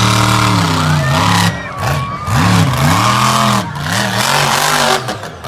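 Monster truck engine revving hard in repeated bursts, its pitch climbing and dropping about four times in a row.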